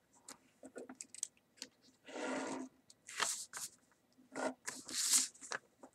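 A sheet of paper being handled and creased: rustling and scraping in irregular bursts, a longer one about two seconds in and several short sharp ones after.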